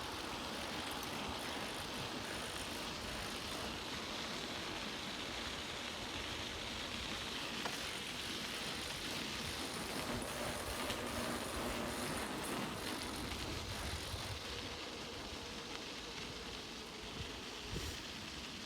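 Bicycle being ridden: a steady rush of tyre and wind noise, with a few knocks and rattles from the bike along the way.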